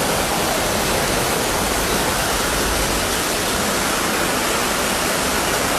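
A loud, steady rushing noise with no tones, voices or knocks, starting and stopping abruptly.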